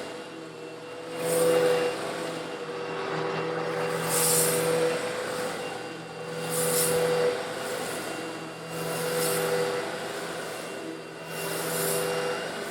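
Eureka vacuum cleaner motor running steadily while sucking up small coarse stone granules. A rattling hiss of the granules swells and fades about every two and a half seconds.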